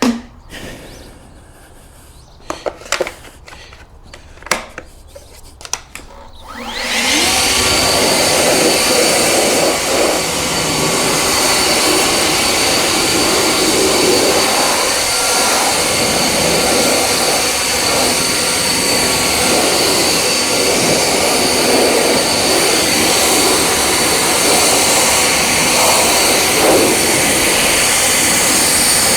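A few light knocks, then about seven seconds in a loud car-detailing machine driven by a fast electric motor and fan switches on and runs steadily, with a faint high whine over a rushing air noise.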